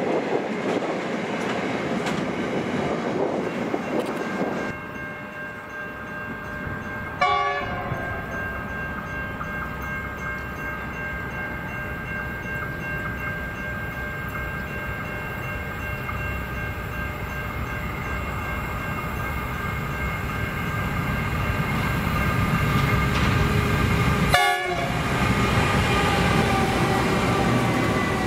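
Freight train passing: a low rumble with steady, high whining tones held over it, which drift slightly lower in pitch near the end. The sound changes abruptly three times.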